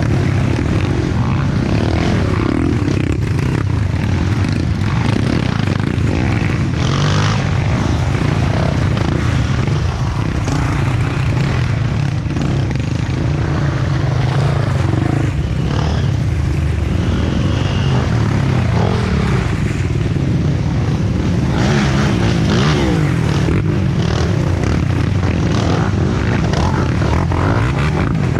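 Off-road dirt bike engines running and revving, the pitch rising and falling as the bikes are ridden.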